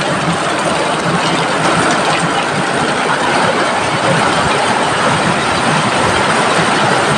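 Heavy rain falling steadily, a dense, even hiss that holds constant throughout.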